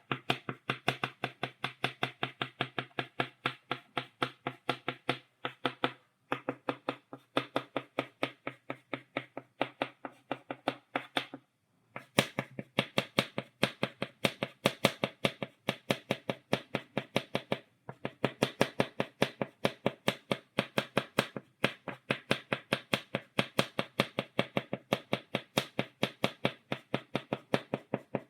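Chalk tapped against a blackboard in rapid, even dots, several sharp taps a second, with a few brief breaks, the longest about halfway through.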